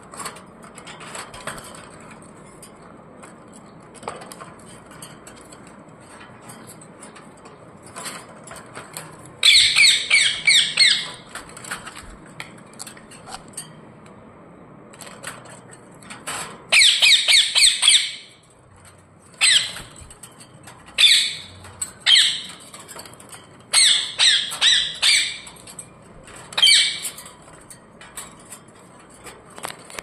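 Pet parrots squawking in loud, harsh bursts. There is a quick run of screeches about ten seconds in and another about seventeen seconds in, then shorter single squawks every second or so until near the end.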